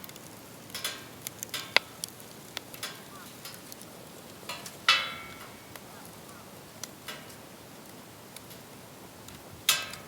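Wood campfire burning in a fire pit, crackling with irregular sharp pops over a low hiss; louder pops come about five seconds in and again near the end.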